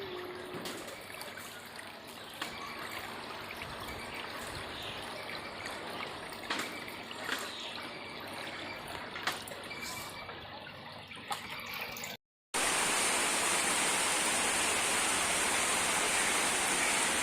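Floodwater flowing and trickling, with scattered small drips and splashes. About twelve seconds in, it breaks off and gives way to a louder, steady hiss of rain.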